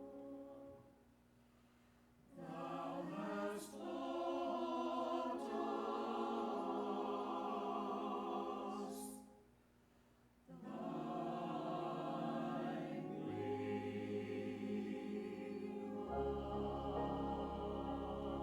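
Church choir singing an anthem with keyboard accompaniment: a held chord fades out, and after a short lull come two sung phrases split by a brief pause. Deep bass notes join partway through the second phrase.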